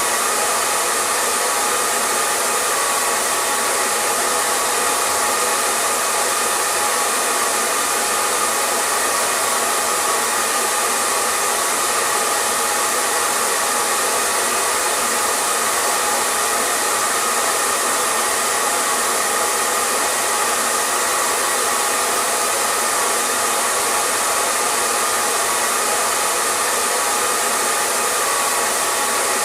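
Electric hair dryer running steadily with a constant whooshing hiss of blown air and a faint motor hum, unchanging in level and pitch.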